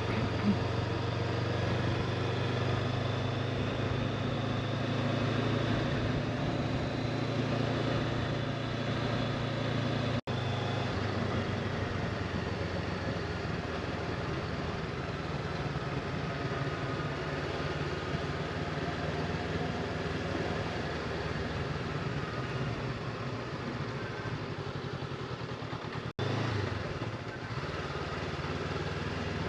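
Honda motorcycle engine running steadily while riding, over a steady haze of wind and road noise. The sound cuts out for an instant twice, about ten seconds in and a few seconds before the end.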